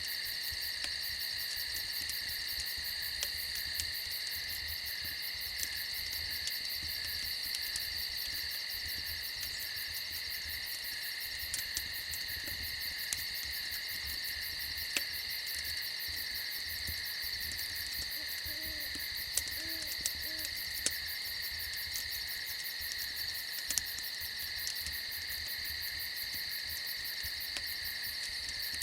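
A steady, shrill chorus of crickets, with a crackling campfire giving scattered sharp pops. A few faint, low hoots come about two-thirds of the way through.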